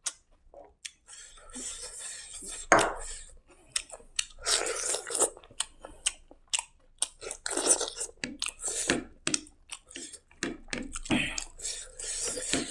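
Close-miked chewing and wet mouth smacks of a person eating rice and curry by hand, irregular and now and then crunchy, with one louder smack about three seconds in. Soft squelches of fingers mixing rice on the plate are heard between bites.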